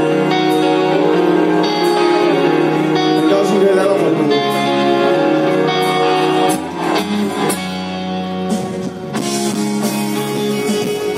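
Live rock band playing, with guitars, held chords and some singing. About six and a half seconds in the music drops back a little and a low bass line comes in.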